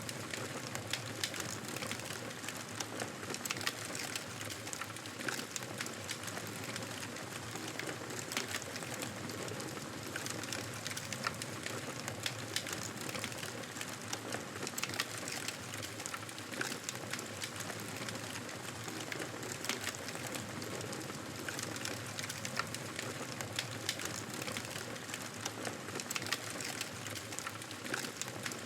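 Wood fire burning in a fireplace: a steady hiss of flames with frequent irregular crackles and pops.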